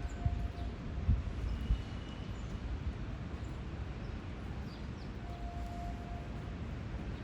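Hanshin 201/202 electric work car running with a low, steady rumble and a few knocks in the first two seconds.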